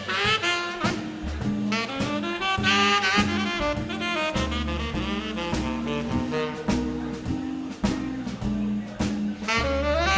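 Swing band playing live: saxophone phrases with fast rising runs over walking upright bass and drums.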